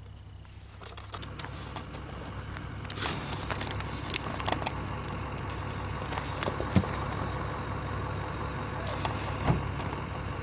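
A vehicle engine idling steadily under a rising wash of outdoor noise, with scattered sharp clicks.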